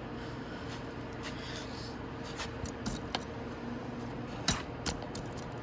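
Hand tools working on motorcycle fairing bolts: scattered light clicks and taps of metal and plastic, with two sharper clicks near the end, over a faint steady hum.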